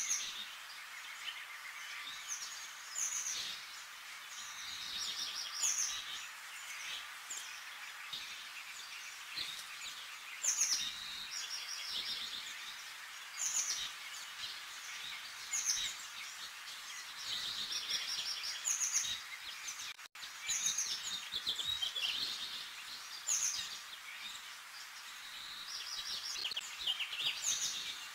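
Birds chirping and singing in short, repeated phrases every second or two over a steady background hiss, with a brief dropout about two-thirds of the way through.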